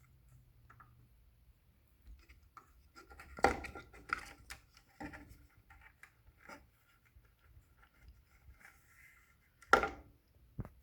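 Hands scraping and picking crumbled pieces of an old garage door opener belt off the opener's top, with small scratching and clicking. There are a couple of louder knocks, one about a third of the way in and one near the end.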